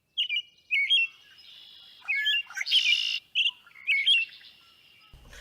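Small songbirds calling: a series of short chirps, with a buzzier call about three seconds in.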